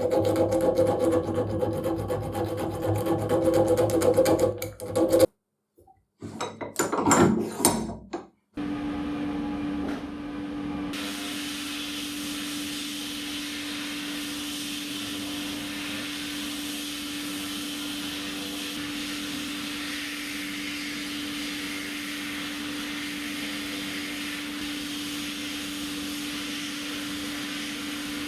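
Hand file rasping in quick back-and-forth strokes. After a brief break and a few loud scrapes, a steady motor hum with one held tone takes over and runs on evenly.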